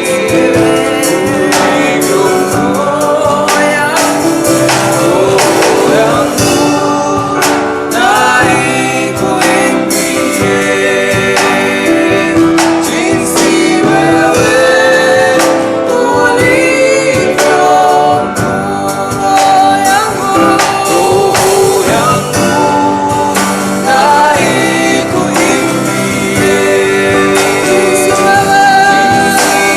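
Live gospel worship song: singers over instrumental backing with a steady beat.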